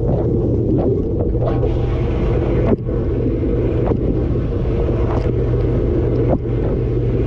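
Dishwasher mid-cycle, heard from inside the tub: the circulation pump hums steadily under a dense low rumble of water sprayed from the spray arms onto the dishes and the camera's waterproof housing, with repeated splashes and brief dips about three seconds in and again near the end.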